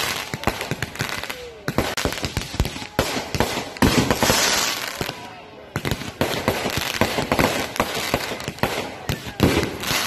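Fireworks going off in quick succession: a dense run of sharp bangs, pops and crackles, with a short lull about halfway through.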